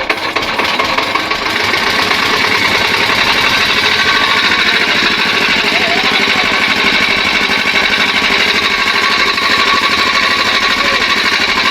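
A 5 HP single-cylinder diesel engine running with a steady, rapid knocking beat. Its speed holds and does not climb: the over-speeding fault appears cured after the adjustment.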